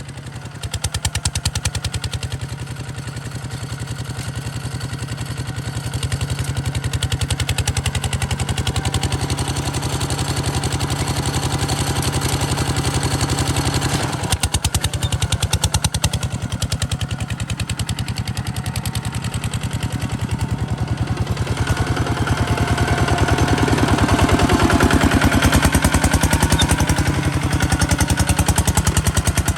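Kubota RT140 DI single-cylinder diesel engine running with a rapid, even chugging of exhaust pulses. It eases off briefly about halfway through and runs louder for a while after that.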